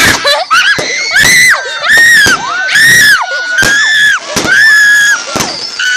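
Children shrieking over and over: about six short, very high-pitched screams, one after another.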